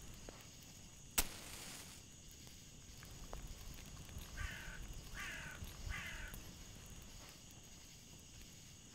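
A sharp click with a brief hiss about a second in, then a crow cawing three times in quick succession.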